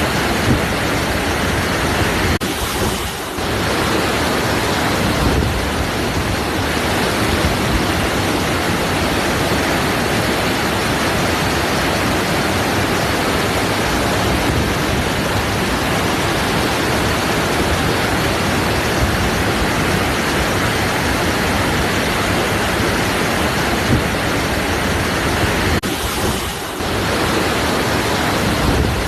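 Waterfall: a steady rush of falling water, briefly dipping in level about three seconds in and again near the end.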